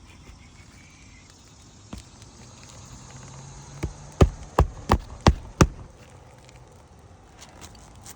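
Hammer driving a roofing nail through a shingle: a light tap, then five sharp strikes at about three a second, with a single knock a couple of seconds before.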